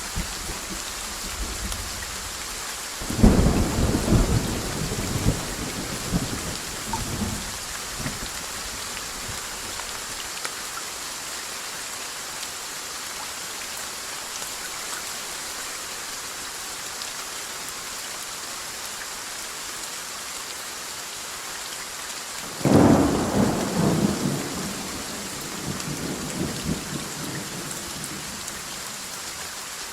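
Steady rain hissing, with two peals of thunder: one a few seconds in and another past the middle, each starting abruptly and rumbling away over four or five seconds.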